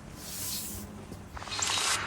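Rattlesnake rattling: two buzzing, hiss-like bursts, a shorter one at the start and a louder one in the second half.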